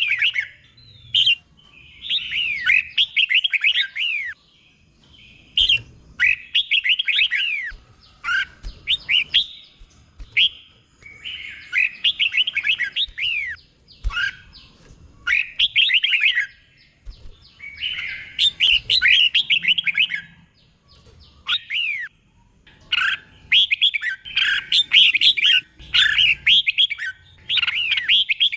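Red-whiskered bulbul singing: a steady run of short phrases of quick, sweeping whistled notes, each phrase a second or two long, with brief pauses between them.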